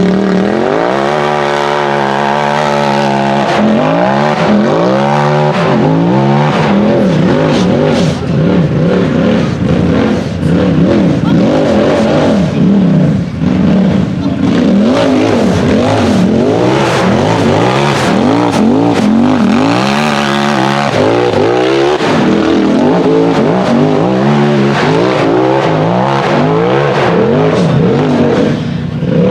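Race UTV buggy engine revving hard: its pitch climbs steadily over the first few seconds, then rises and falls over and over as the throttle is worked on and off.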